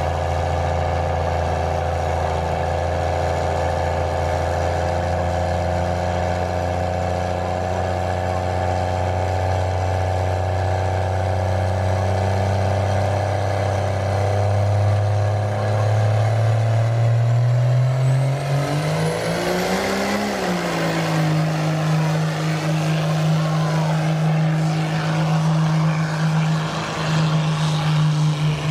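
Diesel pickup truck engine running under load in a truck pull. It drones steadily at first, then about halfway through climbs in revs over several seconds, with a high whistle rising alongside, and holds at the higher engine speed.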